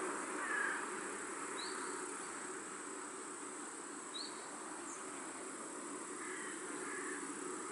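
Countryside pond-side ambience: a steady high insect buzz over an even background hiss, with a few short bird chirps, two of them high rising notes.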